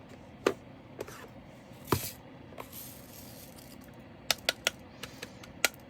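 Sharp, scattered clicks and taps of small hard plastic being handled, as diamond painting drills, containers and bags are sorted, with a quick run of clicks about four and a half seconds in.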